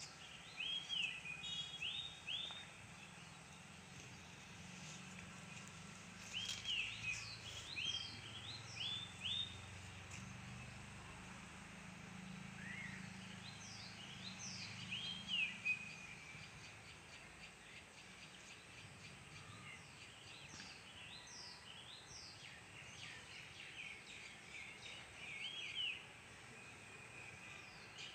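Birds chirping in short clusters of quick, repeated notes every few seconds, over faint steady background noise.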